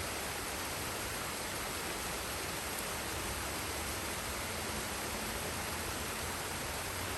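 Forest waterfall and stream: water falling and rushing steadily, an even hiss with no breaks.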